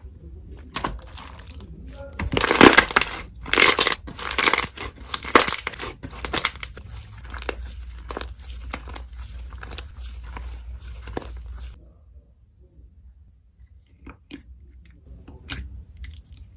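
Slime being worked by hand, with crackling, tearing sounds. It comes in several loud bursts in the first half, turns to softer crackling, and stops about twelve seconds in, leaving a few light clicks.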